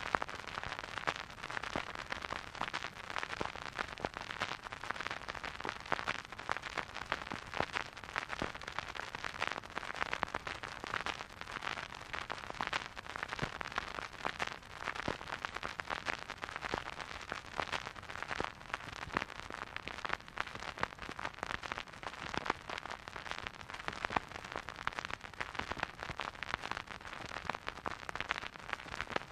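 Vinyl record surface noise from a turntable: a steady hiss with dense, irregular crackles and pops.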